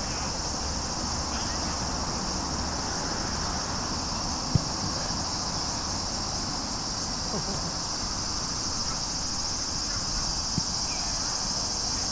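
Steady high-pitched chorus of insects, with two short thuds, one about four and a half seconds in and one near the end.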